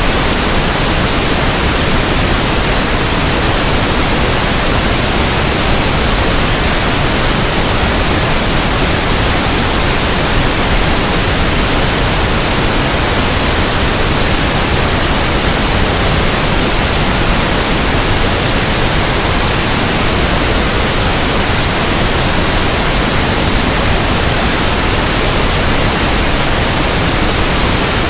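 Steady, loud pink noise: an even hiss spread across the whole range, fuller in the low end than white noise, with no change.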